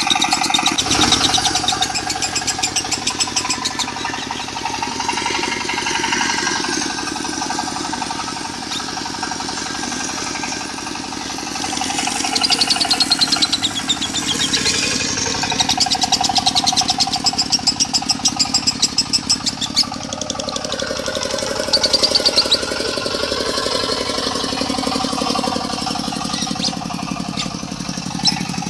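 A diesel engine running steadily with a fast, even putter, mixed with lovebirds chattering in long, rapid high trills (the 'konslet' song style). The high chatter is strongest about twelve seconds in and again around twenty-two seconds.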